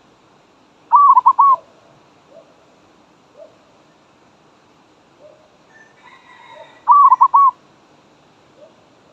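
Zebra dove (merbok) cooing: two short runs of quick cooing notes about six seconds apart, with fainter short calls between them.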